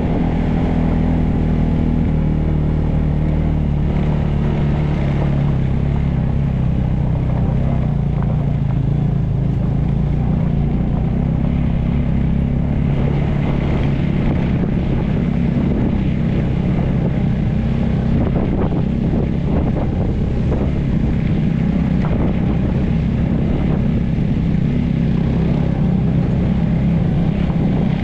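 Motorcycle engine running steadily under way, its pitch drifting slightly as it goes.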